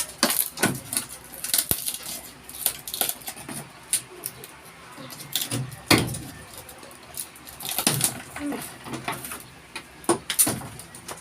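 Irregular knocks, clicks and light clatter of old rotten wooden boards being dismantled by hand.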